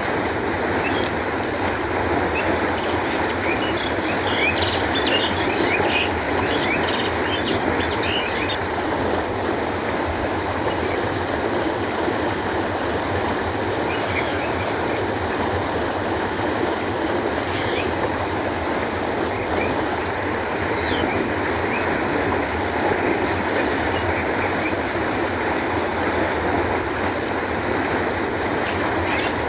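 Canal water flowing in a steady, even rush. Short high bird chirps come in scattered through it, most densely during the first several seconds.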